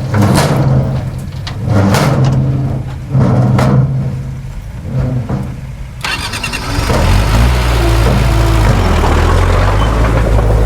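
Diesel engines of heavy earthmoving machinery working. For the first six seconds an engine swells and eases with load, with sharp clanks over it. Then the sound cuts abruptly to a steadier, deeper engine running.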